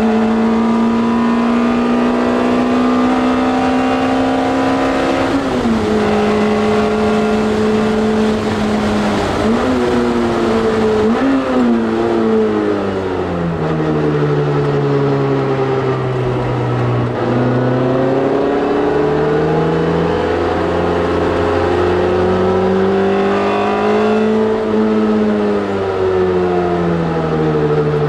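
Race-track car engine at high revs. Its pitch drops sharply at a gear change about five seconds in, then two quick rev blips come around ten and eleven seconds. The revs fall away for several seconds, climb steadily again, and fall once more near the end.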